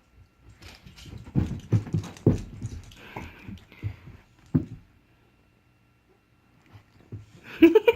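A dog's paws thumping and scrabbling on the floor as it chases a laser pointer dot, a quick irregular run of knocks for about four seconds that then stops.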